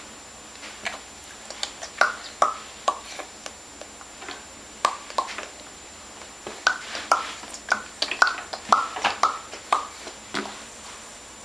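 A baby making popping noises: short, sharp pops at an uneven pace, a few about two to three seconds in, then a quicker run of about a dozen from the middle to near the end.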